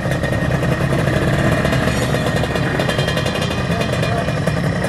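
Drag-race motorcycle engine running loud with a rapid, rough exhaust pulse, held fairly steady at the start line.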